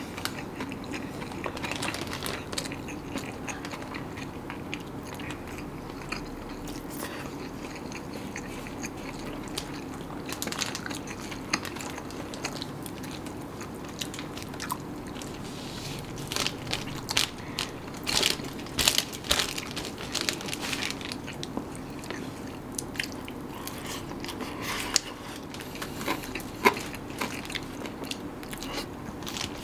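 Close-up eating sounds: biting into crisp food, crunching and chewing, with a denser, louder run of crunches in the middle.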